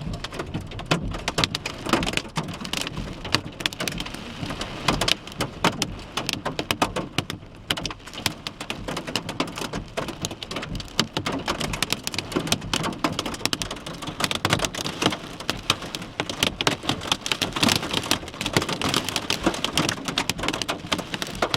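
Quarter-size hailstones and rain striking a car in a dense, irregular patter of sharp knocks.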